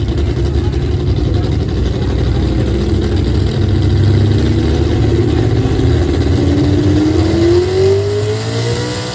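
Pulling vehicle's engine running hard under load, with a heavy low rumble; its pitch climbs over the last couple of seconds as the revs rise.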